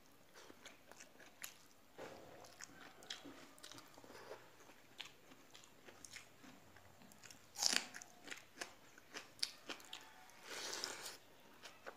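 A person chewing and crunching a mouthful of fried green beans and potato eaten by hand with water rice, as a run of small crunches and clicks. A louder crunch comes about two-thirds of the way through and a longer, noisier burst comes near the end.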